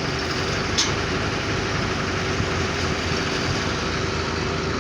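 Heavy machine engine running steadily at a constant speed, with one short click about a second in.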